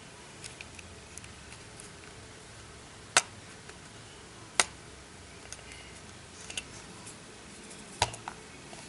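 Small hard clicks and taps from handling a smartphone and small repair tools during disassembly: three sharp clicks stand out among fainter scattered ticks.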